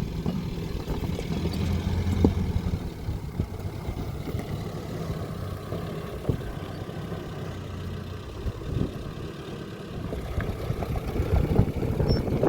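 A vehicle engine running steadily, with a few sharp knocks over it.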